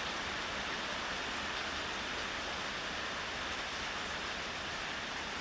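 Steady heavy rain falling on surfaces, beginning to let up a little.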